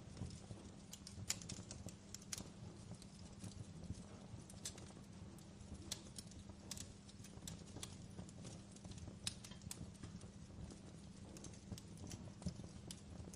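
Wood fire crackling in a fireplace: scattered, irregular pops and snaps over a low steady rumble.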